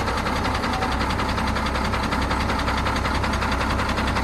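Caterpillar motor grader's diesel engine running steadily, with an even, rapid beat.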